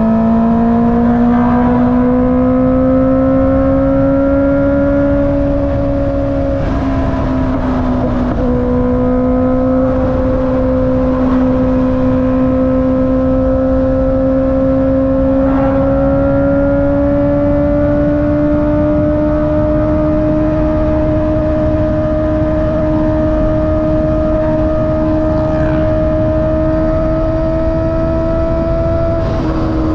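Honda CB650R inline-four engine through an Akrapovic exhaust, running under way at a steady high pitch. The note rises slowly, drops back with one gear change about seven seconds in, then climbs gradually again.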